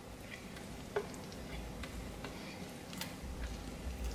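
Faint sounds of a person biting and chewing a chicken tender: scattered soft mouth clicks, with a sharper click about a second in and another about three seconds in.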